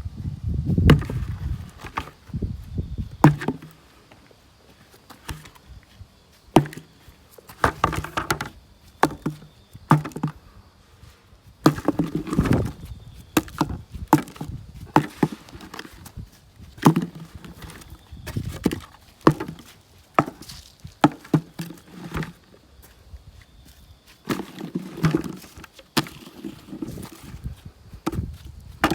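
Irregular wooden knocks and cracks, some single and some in quick clusters, several with a dull low thud under them.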